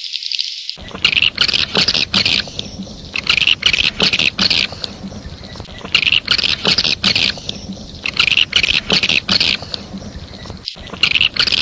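Recorded swiftlet calls of the kind played as a lure for swiftlet houses: chattering chirps in bursts of a second or so, repeating every two to three seconds, with sharp clicks between them. About a second in, the recording changes from a thinner chirping to this fuller chattering.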